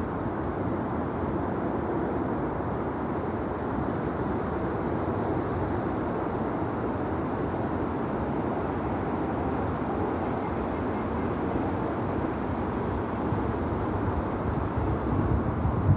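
Small birds giving short, very high-pitched chirps, about a dozen scattered through, over a steady low rushing background noise.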